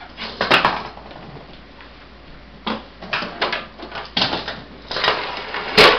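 Toy monster trucks clattering and knocking as they are handled and set down on a hard surface: a string of sharp clacks, the loudest near the end.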